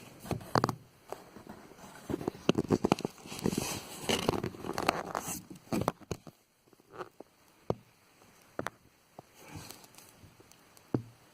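Irregular rustling and scraping handling noise with many sharp clicks and taps, dense for about six seconds, then thinning to scattered single clicks.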